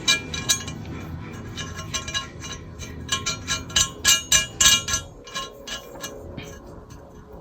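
Steel nuts and wrench clinking on the studs of a twin-scroll turbo manifold as the studs are locked down with the double-nut method. The clinks are sharp and irregular, each with a short metallic ring, and come thickest in the middle.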